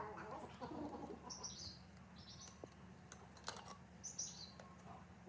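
Birds chirping faintly, a handful of short high calls, with a few light clicks and a low steady hum underneath.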